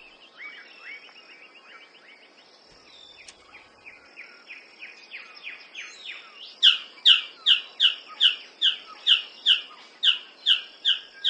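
Male magnificent bird of paradise calling a long series of short notes that each slide down in pitch. The notes are faint at first, then loud from about halfway at nearly three a second. A steady high whine of jungle insects runs beneath.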